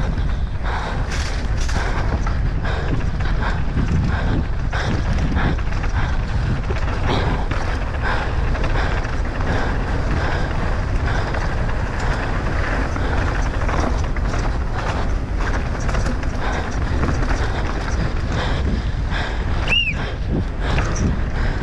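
Downhill mountain bike ridden hard over rough trail: a constant rush of wind buffeting the microphone with many rattling knocks from the bike and tyres hitting rocks and roots. A brief high squeal sounds near the end.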